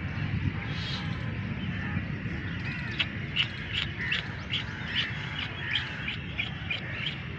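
Birds calling in the background: a quick run of short, high chirps, about two to three a second, starting a couple of seconds in and going on to near the end, over a steady low background noise.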